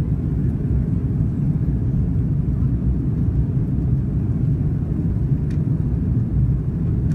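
Steady low rumble of an Airbus A330 in flight, an even engine-and-airflow noise with no change in pitch or level.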